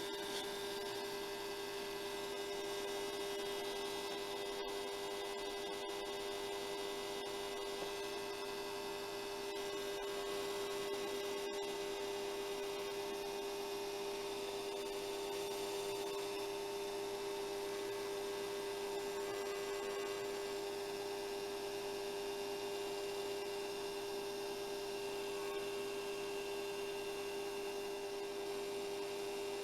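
Hair dryer running steadily at reduced power through a power controller, a constant electric hum with a strong steady tone under the blowing air.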